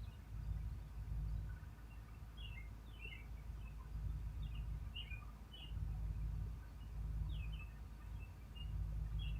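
Small birds chirping in short, scattered calls over a steady low rumble that swells and fades.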